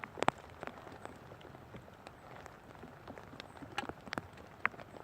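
Rain falling steadily, with scattered sharp taps and knocks; the loudest comes just after the start, and a few more come close together near four seconds in.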